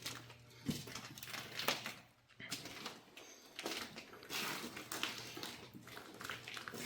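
Irregular scuffs, knocks and rustles over a faint steady low hum.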